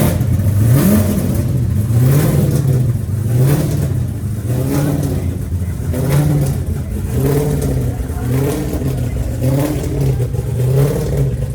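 A car engine being revved over and over in short blips, its pitch rising and falling about once a second.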